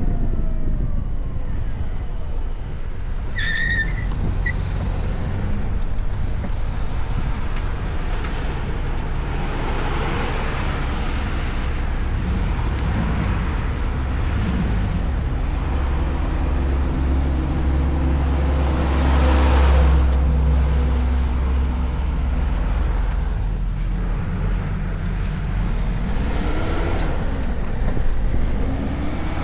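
City traffic heard from a moving electric motorcycle: a steady low rumble of wind and road noise, with the engines of nearby cars and heavier vehicles. A brief high squeal comes a few seconds in, and a vehicle passes loudest about two-thirds through.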